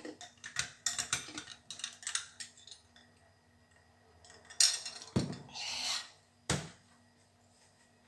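Household objects being handled: a quick run of light clicks and taps, then a sharp knock, two duller thuds and a short scraping hiss.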